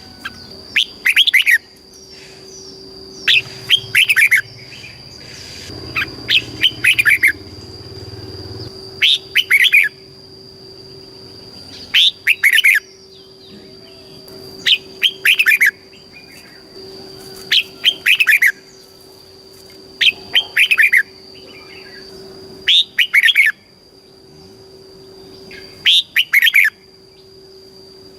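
Red-whiskered bulbul singing: short, quick phrases of falling whistled notes, repeated about every two to three seconds.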